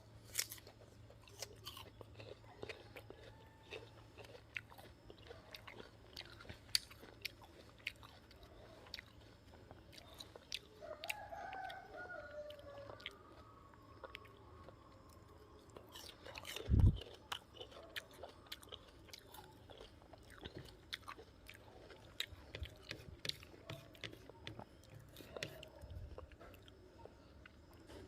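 Guava being bitten and chewed close to the microphone: irregular crisp crunches throughout. One loud low thump about two-thirds of the way through.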